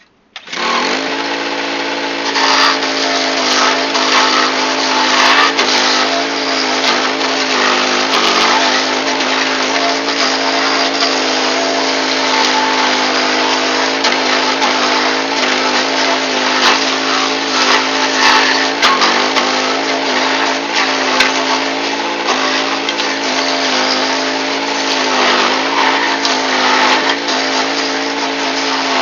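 Power King stump grinder's gas engine running hard with its cutter wheel grinding into a tree stump, starting abruptly about half a second in. The engine note sags briefly a few times as the wheel bites into the wood.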